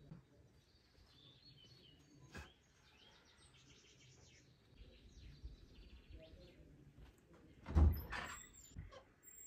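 Small birds chirping and twittering in the background, with a sharp click about two seconds in and a louder thump near the end.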